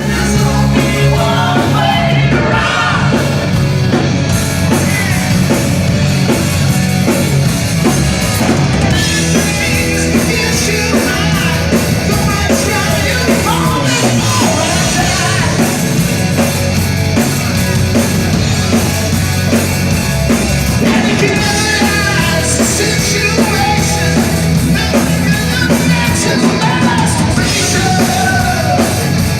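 Rock band playing loud hard rock, with a voice singing or yelling over the guitars and drums.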